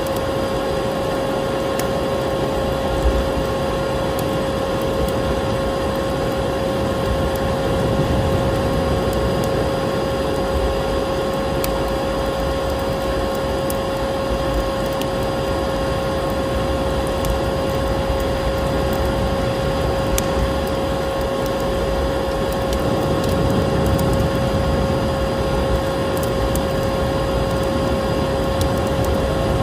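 Vacuum cleaner running steadily with a constant whine, mixed with a wood fire in a fireplace crackling in small scattered pops.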